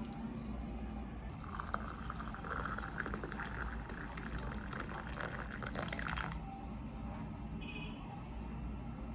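Water running or pouring for about five seconds, starting about a second and a half in and cutting off suddenly.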